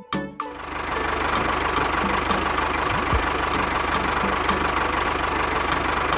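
An engine idling steadily, with a rapid low buzz and a light regular ticking; it comes in about half a second in as music cuts off.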